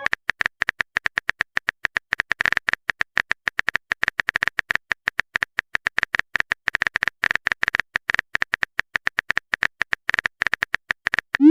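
A phone-keyboard typing sound effect: a rapid, uneven run of light tap clicks, many a second, with no pause.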